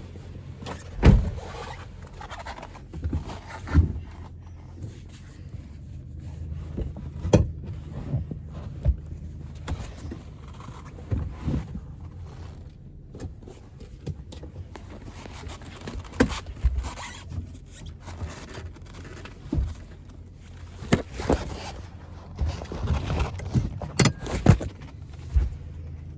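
Toyota Innova Crysta's 2TR-FE four-cylinder petrol engine idling with a steady low hum, with a dozen or so sudden clicks and thumps scattered over it.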